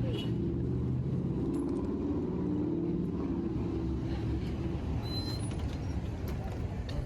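Steady low rumble of a vehicle in motion, heard from inside it, with faint high chirps near the end.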